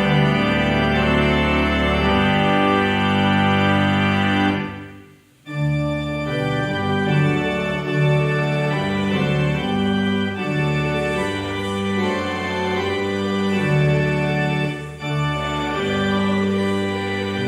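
Organ playing held chords over a moving bass line. The music breaks off for about a second roughly five seconds in, then carries on.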